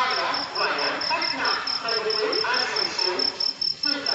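Crowd of people talking at once at an Indian railway station, with a steady, rapid high-pitched chirping running through it at about eight pulses a second.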